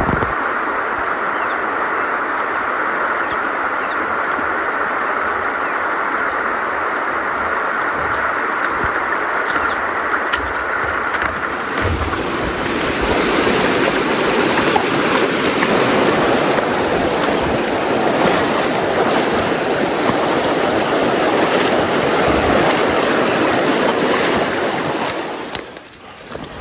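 Steady rush of a fast mountain stream's water. About eleven seconds in it turns brighter and fuller, and it falls away near the end.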